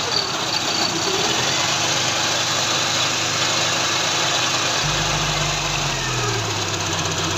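A 16-valve petrol engine running on its first start after the timing belt has been re-fitted and its timing marks aligned, with a little throttle held. About five seconds in, a deeper tone comes in and then steps down as the revs settle.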